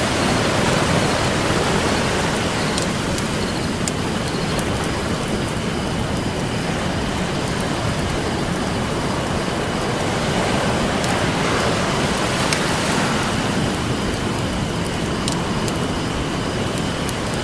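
Campfire crackling with scattered sharp pops over the steady wash of ocean surf that swells and eases.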